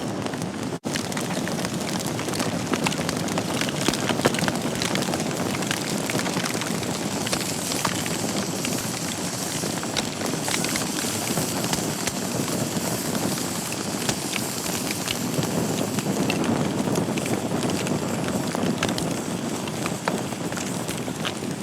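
Wood fire burning in a fireplace: a steady hiss of flames with many small crackles and pops throughout. A split-second gap cuts the sound just under a second in.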